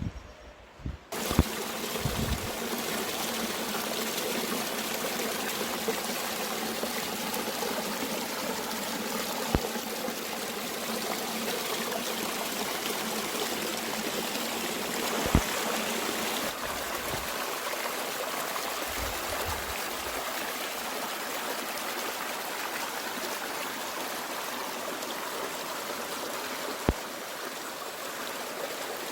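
Mountain stream flowing in a steady, even rush of running water, starting about a second in after a brief quieter moment. A few sharp clicks stand out over it.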